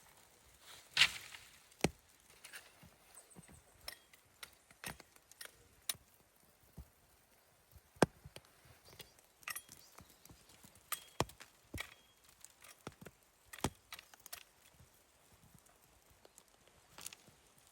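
Scattered sharp clicks and knocks at an uneven pace, roughly one a second, the loudest about a second in and about eight seconds in.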